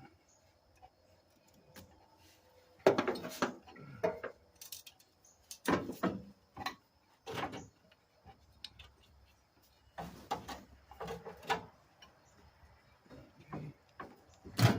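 Clanks, knocks and scrapes of hand work on an old truck engine as hoses and parts are wrenched loose, coming in clusters with a sharp loud knock near the end.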